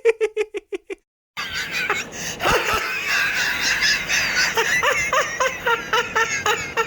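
Laughter meme sound effects: a rapid, evenly pulsed laugh that cuts off about a second in, then after a short silent gap a different clip of high-pitched laughing and squeals.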